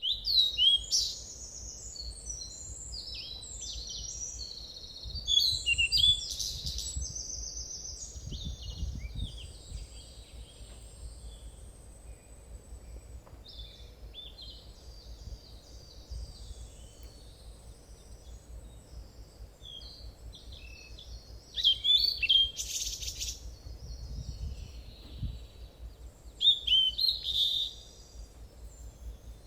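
Small birds chirping and singing: quick high chirps and trills that come in several loud clusters, over a faint low rumble.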